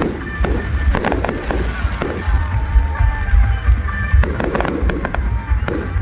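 Fireworks going off: many sharp bangs and cracks in quick, irregular succession over a deep, continuous rumble.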